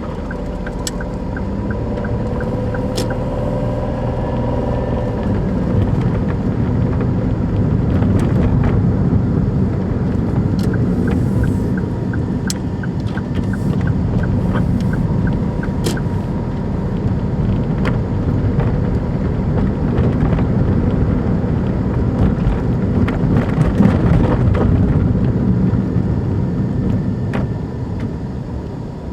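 Engine and road noise of a Daihatsu Move Custom (L175S) kei car being driven. The rumble builds over the first few seconds and eases off near the end. A turn-signal relay ticks at the start and again about halfway through.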